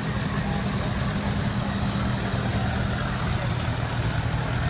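Vintage tractor engine running steadily at low revs, with an even, rapid low beat.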